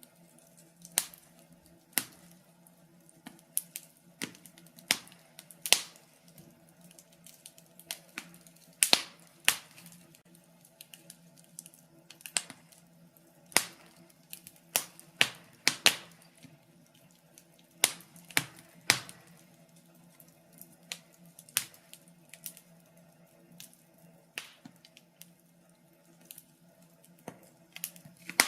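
Wood fire in a fireplace crackling: irregular sharp pops and snaps, sometimes in quick clusters and sometimes a second or more apart, over a faint steady low hum.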